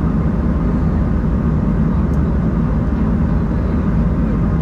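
Steady cabin noise inside an Embraer 190-E2 airliner in flight: a constant low rush of airflow and the drone of its Pratt & Whitney PW1900G geared turbofan engines, even and unchanging throughout.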